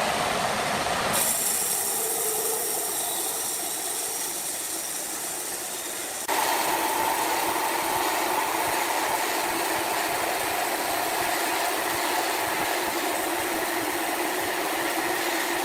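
Sawmill machinery running, a steady mechanical noise with a strong hiss. It changes abruptly about a second in and again about six seconds in, after which a steady whine runs through it.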